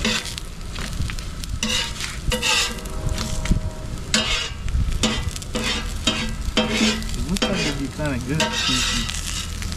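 Food sizzling in a hot pan while a spatula stirs and scrapes through it in repeated strokes.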